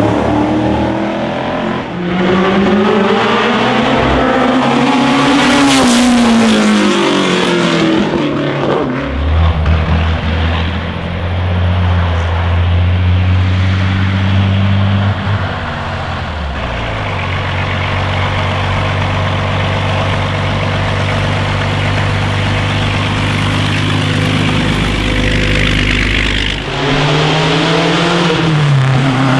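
Classic racing car engines revving hard, rising and falling in pitch with gear changes for the first several seconds. Then a low, steady engine note holds, with one pitch drop partway through, and the revs climb again near the end.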